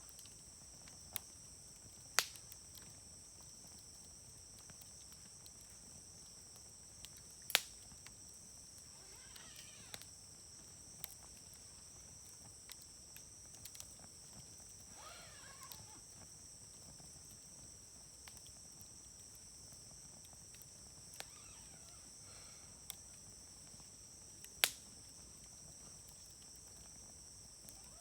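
Wood fire burning in a fire grill, crackling with scattered sharp pops, three of them loud. A steady high insect trill runs behind it.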